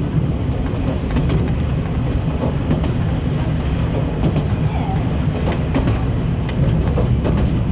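Diesel train running along the track, heard from inside the carriage: a steady low rumble with scattered clicks from the rails.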